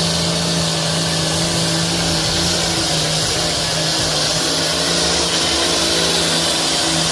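Pulling tractor's engine running flat out at steady high revs during a tractor pull, a loud, dense, unbroken engine noise.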